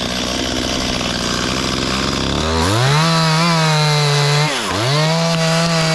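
Small two-stroke chainsaw idling, then throttled up to full revs about two and a half seconds in. It holds a high, steady pitch, drops back briefly, and revs up again.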